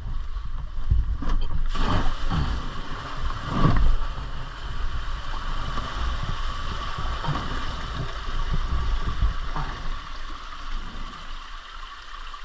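Water sloshing and splashing around a dirt bike as it is pushed out of a water crossing, with wind rumbling on the microphone. The splashing is loudest in the first four seconds.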